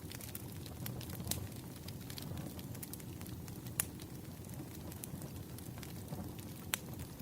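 Wood fire burning, with a low steady rumble and scattered sharp crackles and pops; the loudest pops come about a second in, near the middle and near the end.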